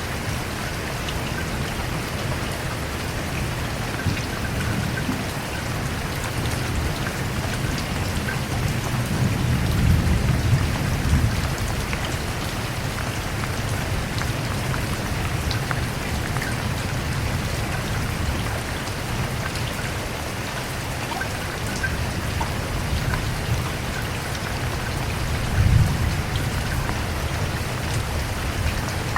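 Steady heavy rain falling, an even hiss of drops. A low roll of thunder swells about ten seconds in and again shortly before the end.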